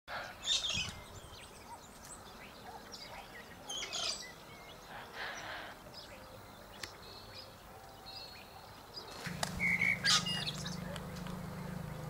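Wild birds chirping and calling in short scattered bursts, with a few thin whistled notes. About nine seconds in, a steady low hum starts up beneath them.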